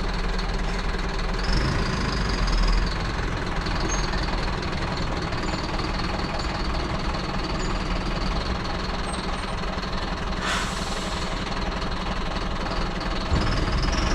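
Mercedes-Benz Atego hooklift truck's diesel engine running steadily, with a short hiss about ten seconds in.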